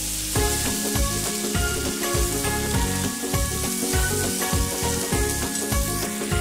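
Cubed potatoes with cumin and green chillies sizzling as they fry in a pan, stirred and scraped with a metal spatula. Background music with a steady beat plays alongside.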